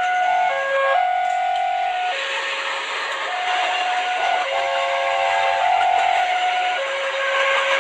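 A toy train's electronic train sound: a string of steady whistle-like tones that step from pitch to pitch every second or so, over a continuous steam-like hiss.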